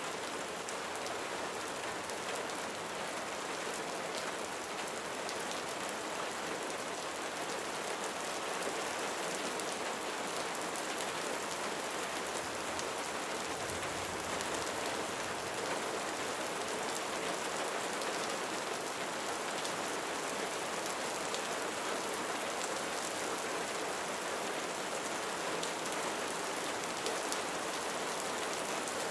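Steady rain falling on a roof, a dense even hiss with the patter of individual drops striking the surface.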